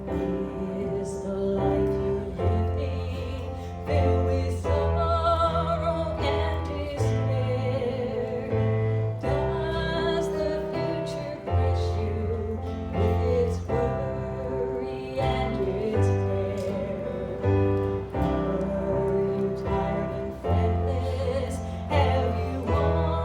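A song sung by a solo voice over instrumental accompaniment, with held chords and a low bass line that moves every second or two.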